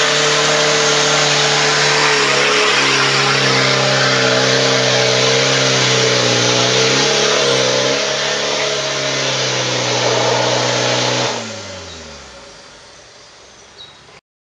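Toyota Land Cruiser LJ73's engine held at steady high revs under full throttle for about eleven seconds, with a loud rushing noise over it, as the 4x4 forces its way through a muddy pit on road tyres. Then the throttle is lifted and the revs fall away as the sound fades.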